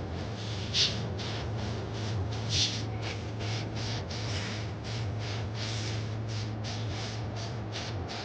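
Steady low hum of a private jet's cabin, with quick breathy hissing bursts about three a second over it, two of them louder about a second in and near the middle.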